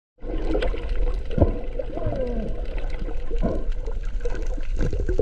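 Parrotfish biting and scraping at reef coral underwater: scattered sharp crunching clicks over a steady low rumble of moving water. A few short sliding tones come through about a second and a half, two, three and a half and five seconds in.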